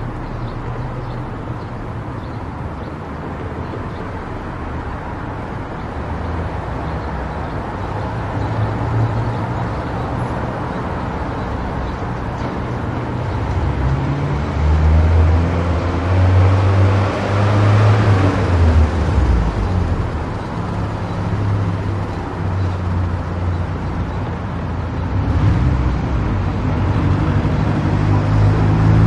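Car driving on an expressway: steady road and engine rumble that grows louder through the stretch, with a swell of rushing noise about two-thirds of the way in.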